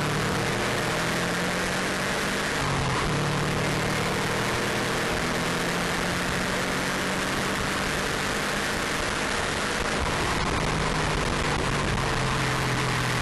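Subaru Impreza WRX RA's turbocharged flat-four engine running hard at track speed, its note changing once about three seconds in, under a heavy rush of wind and road noise.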